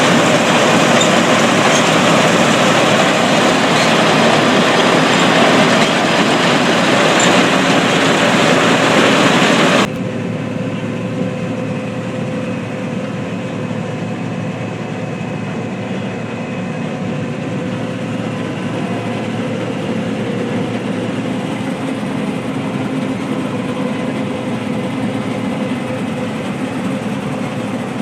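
Heavy harvest machinery running with a loud, steady mechanical din. About a third of the way in it cuts abruptly to a quieter, duller steady running.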